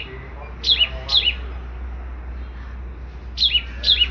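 Songbird calling in sharp, quickly falling chirps given in pairs, two pairs about three seconds apart, over a steady low hum.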